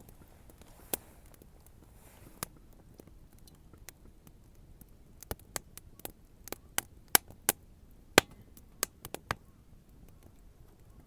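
Wood bonfire crackling, with sharp irregular pops and snaps: a couple of single pops, then a quick flurry of them from about halfway through.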